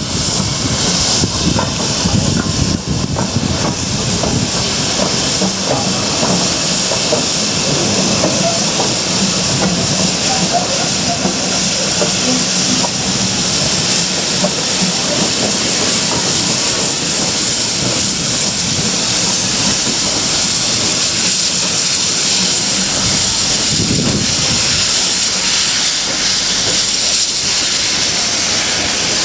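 Steam locomotive 7828, a GWR Manor class 4-6-0, hissing steam steadily and loudly, with a faint low rumble underneath.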